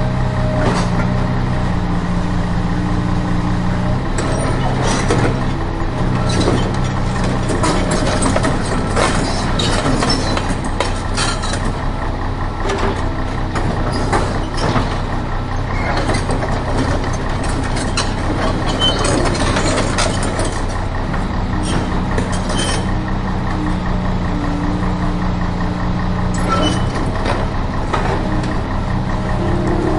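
Heavy truck engine running at a steady idle, its low hum thinning out in the middle and coming back strongly near the end, with scattered sharp clicks and knocks over it.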